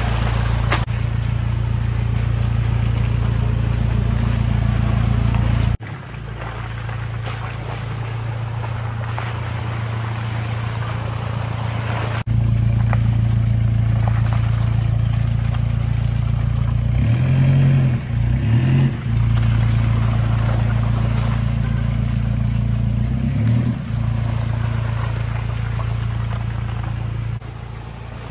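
Four-wheel-drive vehicle engine running as it drives an off-road trail, a steady low drone. The sound changes abruptly twice in the first half, and it wavers for a couple of seconds past the middle.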